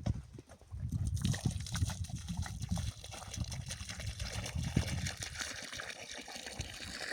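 Running water: a steady trickling rush that starts about a second in and cuts off abruptly at the end, over irregular low thumps.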